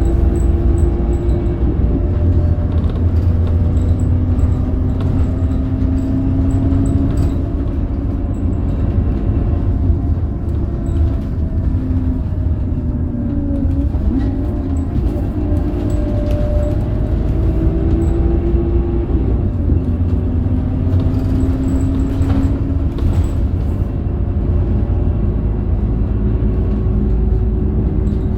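Scania K270UB bus under way: its 270 hp Scania DC9 diesel engine and ZF Ecomat automatic gearbox running with a steady low rumble, and whining tones that rise and fall in pitch several times.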